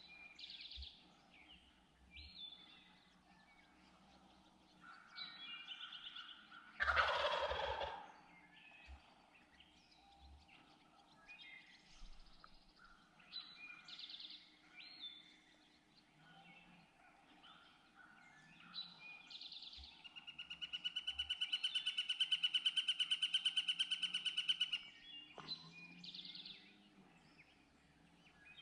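A wild turkey gobbles once, a loud rattling call falling in pitch about seven seconds in, amid scattered songbird chirps. Later a long, rapid trill runs for about five seconds.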